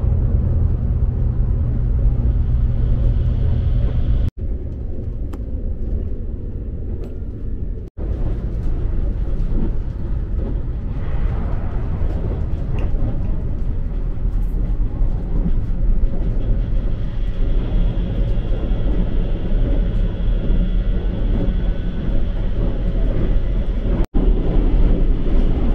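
Steady rumble of a moving train heard from inside a passenger carriage, with running noise from the wheels and the body. It breaks off abruptly three times at edits.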